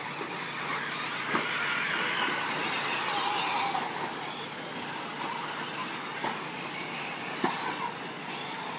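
Radio-control short course trucks racing on a dirt track: a steady high whirring of several small motors and tyres on dirt, with faint rising and falling whines as they throttle, and a few sharp knocks from trucks landing or hitting.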